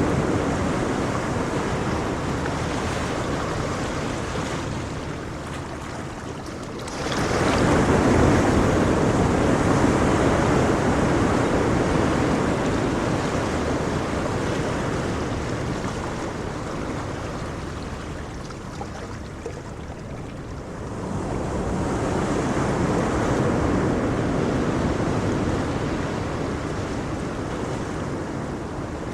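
Ocean waves breaking and washing back: a wave crashes about seven seconds in and another just after twenty seconds, each fading out slowly as the water draws back.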